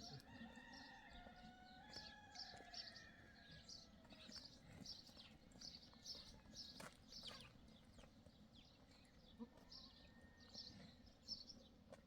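Faint birds chirping: short high chirps repeating about every half second, with some longer held calls in the first few seconds.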